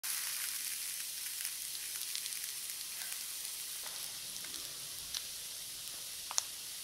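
Ground pork and vegetable mixture frying in a banana-leaf-lined pan: a steady sizzling hiss with scattered small pops, and a sharper pop near the end.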